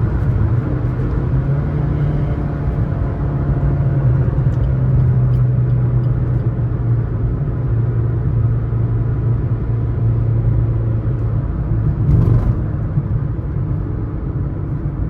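Suzuki S-Cross 1.3 DDiS diesel car driving: a steady low engine drone mixed with tyre and road noise, with a brief louder swell about twelve seconds in.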